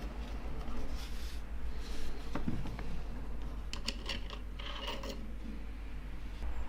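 Light clicks and taps of small parts and tools being handled on a workbench, over a low steady hum.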